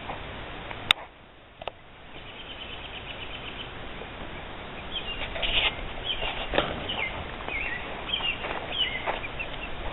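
Young chickens peeping, short high chirps coming thick and fast through the second half, over a steady outdoor hiss. A single sharp click about a second in.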